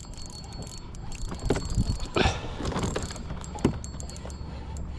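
Fishing reel being cranked, its gears clicking irregularly, as a hooked lake trout is reeled up from deep water.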